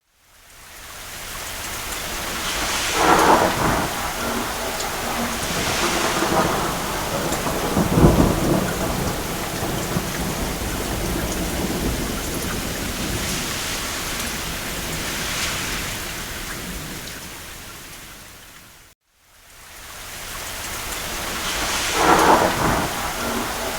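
Steady rain with rumbles of thunder rolling in several times, the deepest about eight seconds in. The sound cuts out briefly near the start and again about 19 seconds in, fading back up each time.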